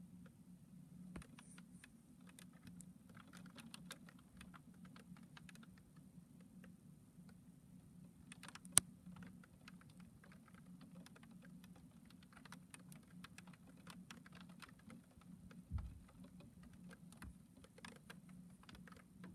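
Light rain dripping and pattering in small irregular ticks over a low steady hum, with one sharp click about nine seconds in and a dull low thud near sixteen seconds.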